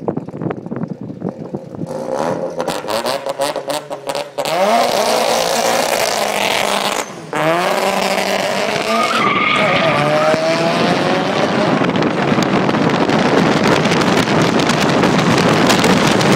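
Mazda RX-7 FC's single-turbo rotary engine. At first it runs low with rapid popping pulses. About four seconds in it accelerates hard, its pitch climbing and dropping briefly at gear changes twice, then it holds loud at high speed.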